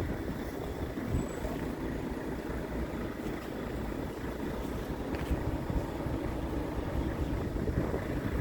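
Scania P truck's diesel engine running with a steady low rumble.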